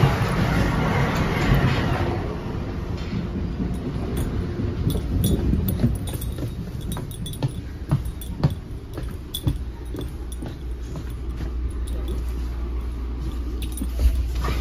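Inside a moving NJ Transit Multilevel coach: a steady low rumble of the train, louder hiss at first that drops away about two seconds in, with scattered clicks and rattles over it.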